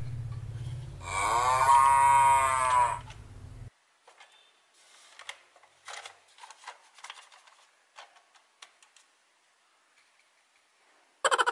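A cow's moo: one long, loud call that rises and then falls in pitch over a low hum, cut off sharply after about three and a half seconds. Then light clicks and taps of plastic toy cow parts being handled.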